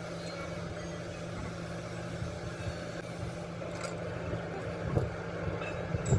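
An engine idling with a steady low drone, with a couple of short knocks near the end.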